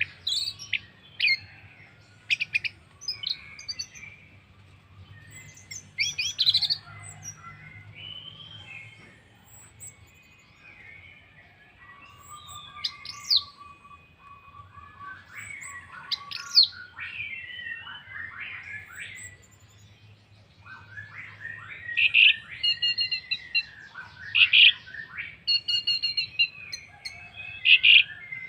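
Orange-headed thrush singing a varied song of quick chirps and whistled phrases, in bursts with short pauses, louder in the last third.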